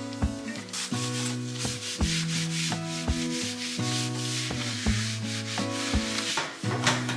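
Repeated scrubbing strokes rubbing against a surface, over background music with a steady beat.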